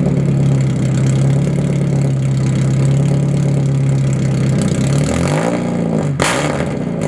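Mazda NA Miata's four-cylinder engine idling loudly through an exhaust with the muffler cut out. About five seconds in it is blipped once, rising and falling in pitch, and a sharp burst of noise follows about a second later.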